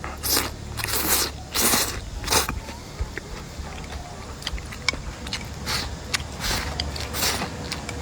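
A person eating close to the microphone: crunchy bites and chewing in short bursts, with small wet mouth clicks between them.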